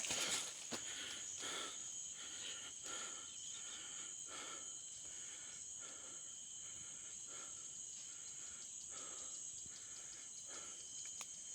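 Steady high-pitched chorus of forest insects, a continuous buzz with a weaker lower band beneath it. Faint soft pulses come through it about twice a second.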